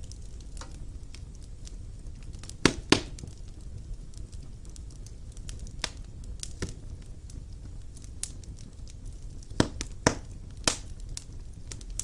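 Wood fire burning in a fireplace, crackling with irregular sharp pops over a low steady rumble. The loudest pops come as a close pair about three seconds in, and as a cluster of three near ten seconds.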